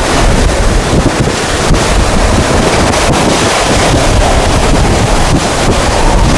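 Hurricane-force eyewall winds roaring, with a heavy low rumble of wind buffeting the microphone and loud gusts that rise and fall.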